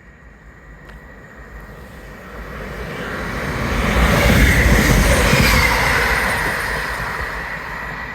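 A train passing close by along the line, its rumble and rail noise building over a couple of seconds, loudest about halfway through, then fading.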